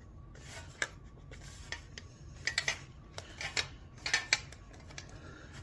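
Thin sheet metal being bent over and pressed by hand, with scattered light metallic clicks, ticks and rustles as the edges are worked flat.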